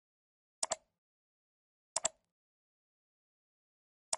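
Computer mouse button clicks, each a quick double click-clack of press and release: one about half a second in, another near two seconds, and a third right at the end.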